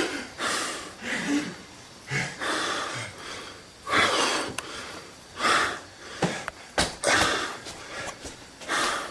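A person breathing hard in repeated noisy breaths, winded after a sprint, with a single sharp knock about seven seconds in.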